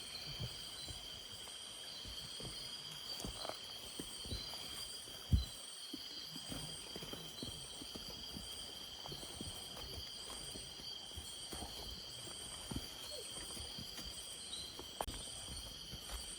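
Night-time insect chorus of steady, high-pitched trilling, some of it pulsing evenly, together with footsteps crunching and knocking on a forest trail. There is a louder single thump about five seconds in.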